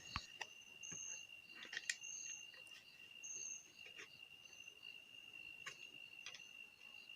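Faint, steady insect chirring with a regular high pulsing, and a few light clicks and taps scattered through it.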